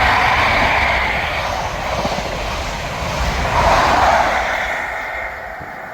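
A ScotRail HST with class 43 diesel power cars passing through a station at speed: a loud rushing roar of engines and wheels with a low rumble. It swells again a little after three seconds in and then fades away.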